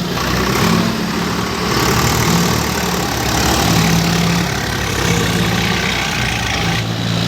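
Tractor engine running steadily at low speed, its note shifting a little.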